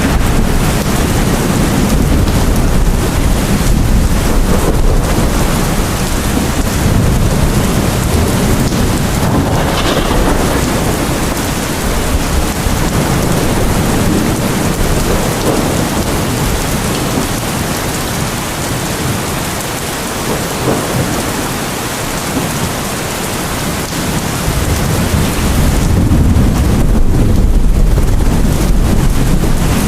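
Heavy rain falling, with a deep low rumble that eases off in the middle and swells again near the end.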